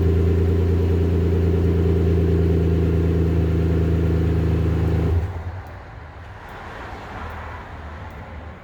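Exhaust of a 2015 Lexus RX350's 3.5-litre V6 with the resonator deleted, running at steady raised revs with a low, even drone. It drops away suddenly about five seconds in.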